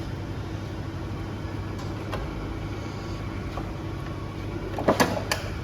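Grisetti RU 2000 hydraulic cylindrical grinding machine running idle with a steady hum, with two sharp knocks about five seconds in.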